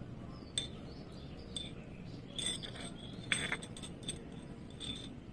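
Baby parrot giving short, high squeaky chirps, about six scattered over a few seconds, one of them sliding down in pitch, over a low steady background hum.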